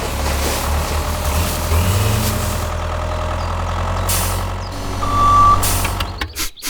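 A vehicle engine running steadily, with a single short beep about five seconds in.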